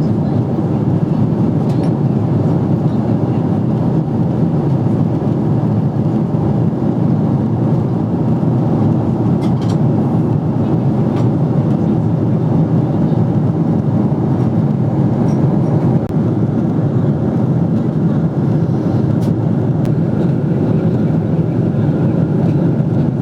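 Steady cabin noise of a Boeing 777-300ER in flight: a constant low rumble of engines and airflow heard from inside the passenger cabin.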